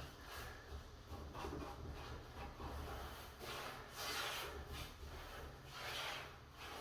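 Hand rubbing strokes on a wooden door, a series of irregular swishes.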